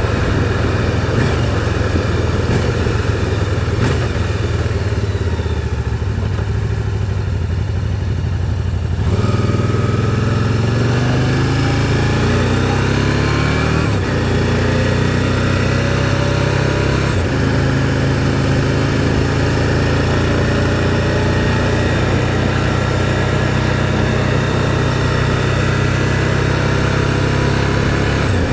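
Motorcycle engine heard from the rider's seat, with wind noise over it. About nine seconds in the engine pulls away and its pitch rises for several seconds, dips once with a gear change, then settles into a steady cruise.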